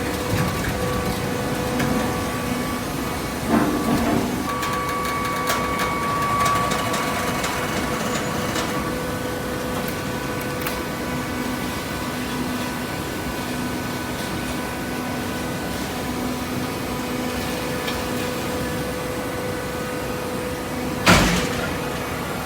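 Hydraulic baling press running with a steady hum, with scattered clicks and clanks in the first half and one loud bang about 21 seconds in.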